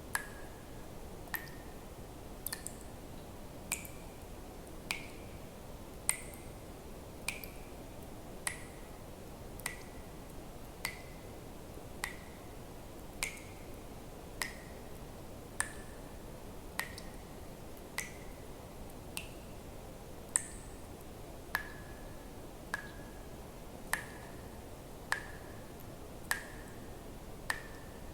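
Water dripping at a slow, even pace, about one drop every 1.2 seconds, each a short ringing plink, over a faint steady hiss.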